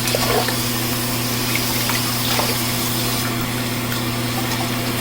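Water running steadily from a tap, over a steady low hum.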